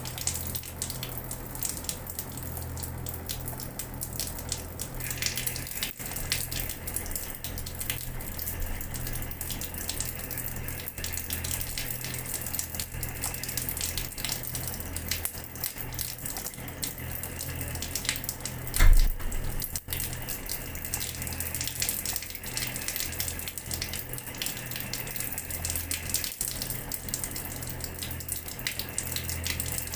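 Water running from a tap and splattering onto a floor, a steady splashing with many small drips and splats. A single loud low thump comes about two-thirds of the way through.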